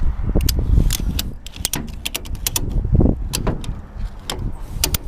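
Ratchet strap being tightened: a series of sharp metallic clicks from the ratchet buckle, cinching down a load strap that had worked loose. Wind rumbles on the microphone underneath.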